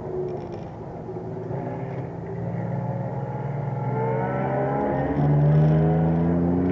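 Alpine A310 V6's engine accelerating hard, its note climbing in pitch and growing louder, with a brief break about five seconds in as it shifts up a gear before climbing again.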